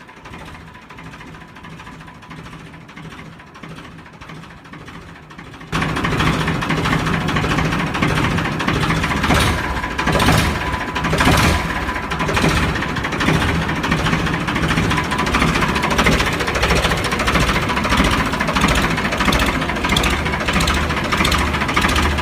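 Small motor of a homemade miniature tractor running with a steady whine; about six seconds in it suddenly gets much louder, with a continuous rattling clatter and irregular knocks.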